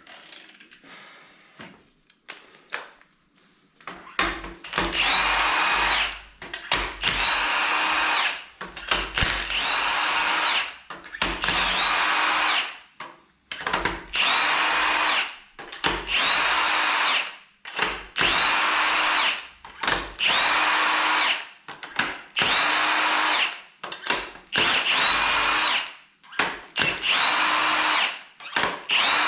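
Electric power tool's motor run in about a dozen short bursts, roughly one every two seconds. Each burst whines up to speed and winds down as fasteners are run out of the engine during its strip-down.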